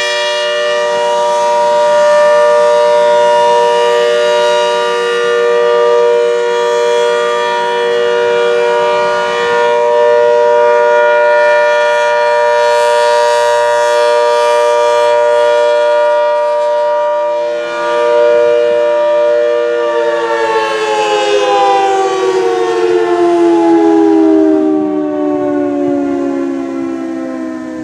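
ACA Hurricane 130 MKII mechanical outdoor warning siren sounding a steady alert signal as a chord of several tones. About two-thirds of the way through it shuts off and winds down, its pitch falling steadily.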